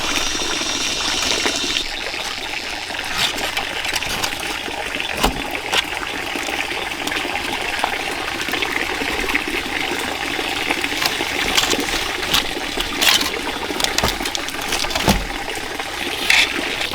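Running water trickling steadily, with a few short light clicks over it.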